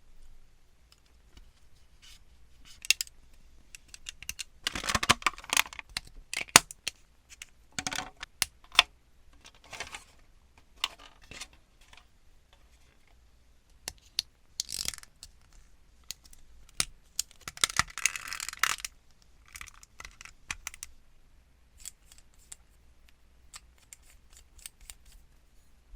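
Plastic model kit being built by hand: scattered sharp clicks and snips of plastic parts being cut and fitted, with longer stretches of plastic handling noise about five seconds in and again around eighteen seconds.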